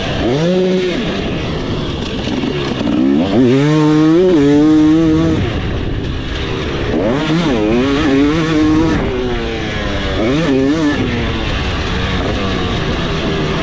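2026 KTM 300SX two-stroke 300 cc dirt bike engine revving hard under a rider, its pitch climbing and dropping about four times, with the longest pull held for nearly two seconds in the middle. Wind and riding noise rush steadily underneath.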